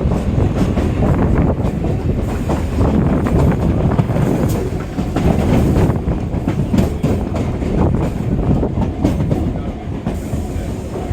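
An EMU local train heard from on board, running along the track: a loud, steady rumble with the wheels clicking and clattering over the rail joints.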